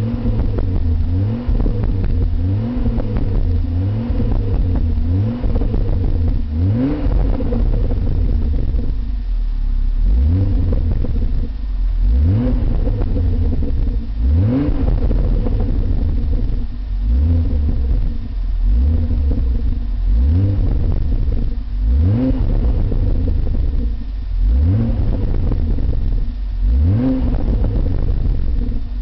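Car engine revved repeatedly through a Milltek aftermarket exhaust: short throttle blips about every two and a half seconds, each rising in pitch and dropping back to idle, with a brief lull about a third of the way in.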